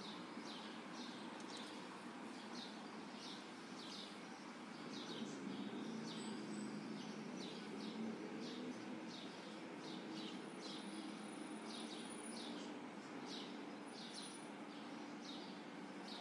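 A bird chirping over and over, about two short chirps a second, over a faint low background hum.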